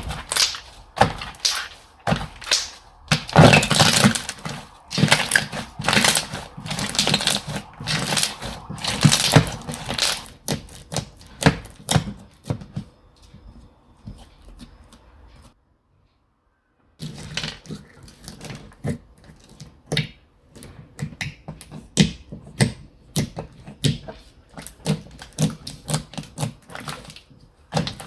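Slime being squished and pressed by hand, a fast run of small wet clicks and pops. It drops out to dead silence for about a second and a half just past the middle, then the clicking resumes.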